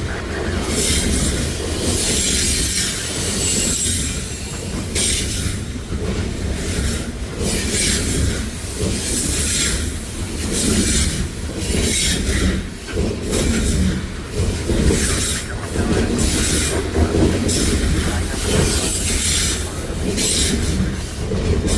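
Canadian Pacific coal train rolling past, its cars rumbling steadily with high-pitched wheel noise rising and falling over the rails.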